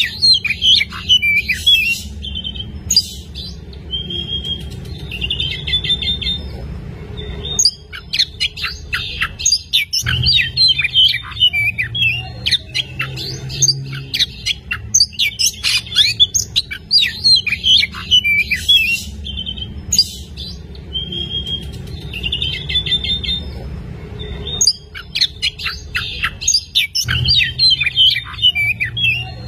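Oriental magpie-robin singing continuously: fast runs of varied whistles, chirps and trills in repeated bursts, with brief pauses between runs, over a steady low hum.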